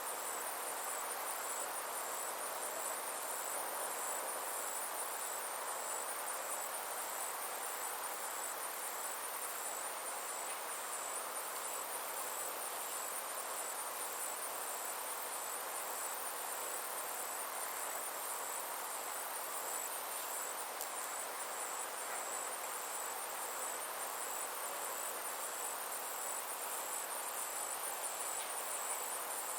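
Summer insects chirring steadily: a high, evenly pulsing trill over a constant hiss.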